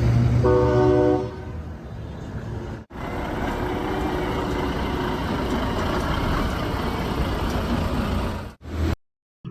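Edited-in vehicle sound effects: a heavy truck engine rumbling, with a short horn blast about half a second in. After an abrupt cut at about three seconds comes a steady running-vehicle noise, which cuts out shortly before the end.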